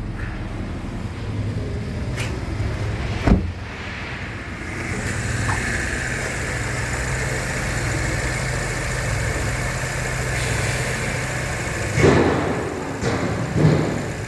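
Toyota Ractis 1NZ-FE 1.5-litre four-cylinder engine running steadily on test, with a few thumps, one about three seconds in and two near the end.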